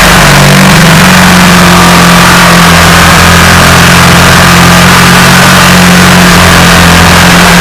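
Power tool motor running steadily at one pitch, with a small step in pitch about a second in.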